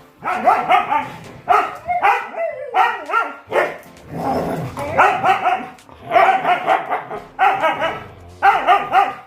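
Husky barking and yipping loudly in a run of about nine short pitched calls, each bending in pitch, with brief gaps between them.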